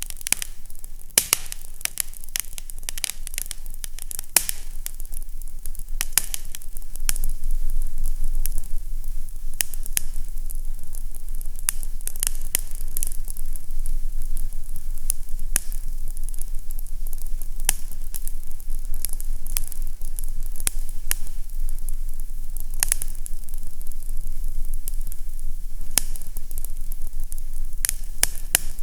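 Fireplace fire crackling, with frequent sharp pops over a steady hiss and a low hum underneath.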